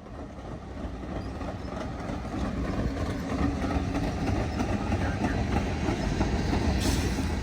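Train passing on the line, its low rail and engine noise growing steadily louder, with a short high hiss near the end.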